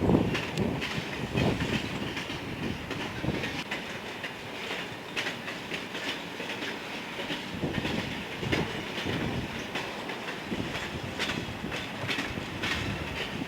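Railroad cars rolling past with a continuous rumble and repeated irregular clicks and rattles from the wheels and car bodies.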